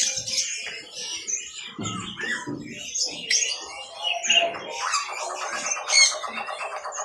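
Many caged birds chirping and squawking over each other, with a rapid, buzzy trill that starts about five seconds in and carries on.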